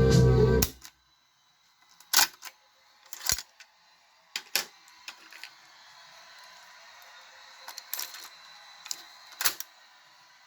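Music from an Aiwa SD-L22 player cuts off just under a second in. A handful of sharp, scattered clicks and knocks follow over several seconds, from the player's controls and mechanism being worked, with a faint hiss between them.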